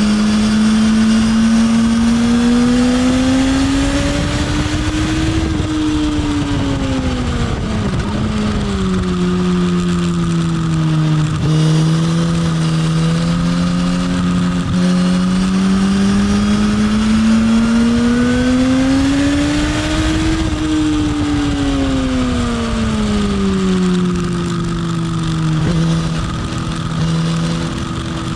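Motorcycle engine running hard, its pitch climbing slowly and then falling away twice as the bike speeds up and slows, over a steady rush of noise.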